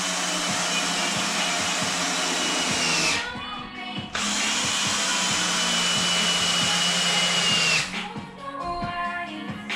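A power tool running in two steady bursts of about three to four seconds each, with a high whine that dips as each run stops.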